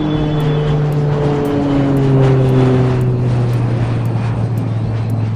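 A vehicle's engine drones steadily, its pitch sliding slowly down as it goes by.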